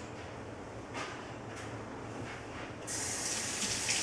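A few faint handling clicks, then about three seconds in a tap is turned on and water runs with a steady hiss.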